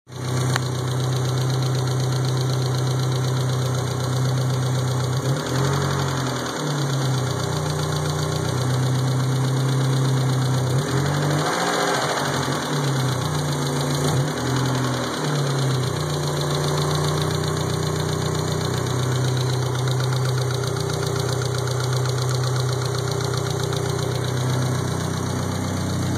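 A 1st-generation Talon's 4G63 turbocharged 2.0-litre inline-four idling, with the revs raised and dropped a few times in the middle. It carries a tick that the owner suspects is lifter tick.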